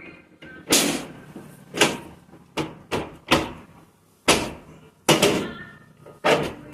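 Aluminium accordion storm shutter panels clattering and banging as they are slid and knocked, about eight irregular sharp metal clacks, some with a short ringing tail.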